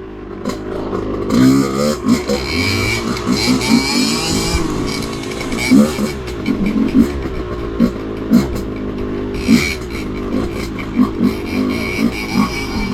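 Two-stroke dirt bike engine being ridden hard over rough trail, revving up and down over and over, its pitch rising and falling every second or so.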